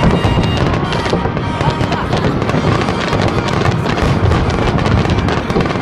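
Fireworks finale barrage: many aerial shells bursting in quick succession, with continuous dense crackling and reports at a steady loud level.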